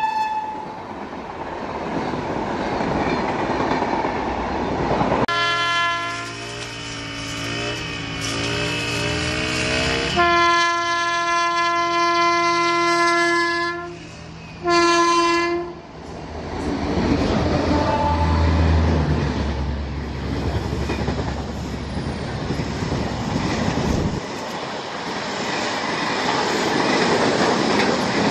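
WAP-7 electric locomotive and its passenger coaches running past with rumbling wheel noise. Then a WAP-7's multi-tone horn sounds one long blast of several seconds and a short second one as the locomotive approaches. The train then passes with a heavy rumble and the clickety-clack of coaches over the rail joints.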